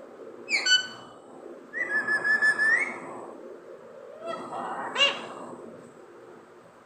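A parrot whistling and calling: a quick falling whistle, then a held whistled note of about a second, then a rising call.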